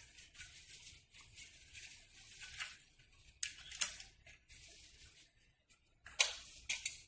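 Rustling and scraping handling noise, with several sharp clicks and snaps, two of them about halfway through and a cluster near the end.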